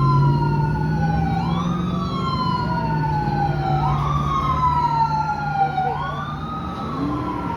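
Emergency vehicle siren wailing, its pitch rising quickly and then falling slowly, over and over about every two seconds, above the steady low hum of a running engine.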